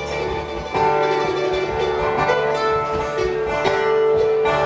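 Live acoustic band playing an instrumental passage: plucked strings with long held notes above them.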